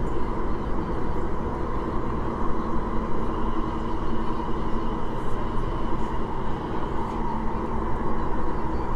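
Inside a Tuen Ma Line Kinki Sharyo–Kawasaki electric train running steadily: a constant rumble of wheels on rail with a faint steady motor whine over it.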